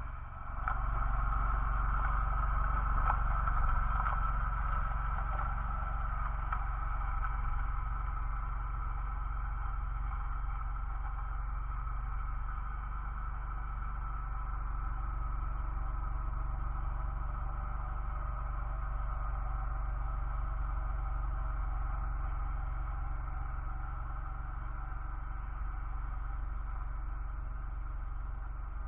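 An engine running steadily at a constant speed, with a deep, even hum throughout.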